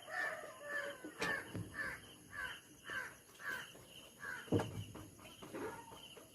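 A crow cawing in a steady series, about two caws a second, for roughly four seconds. Near the end come a few low thumps.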